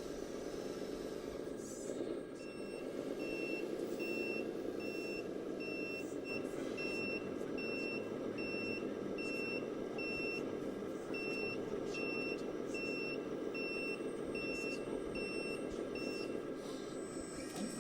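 Reversing beeper of an RC model truck, beeping steadily about two and a half times a second, with a short break midway, over a steady background hum.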